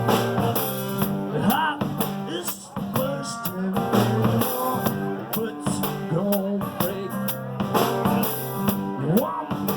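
Live blues-rock band playing an instrumental passage: drum kit and bass keep a steady groove under a lead line of repeatedly bent notes.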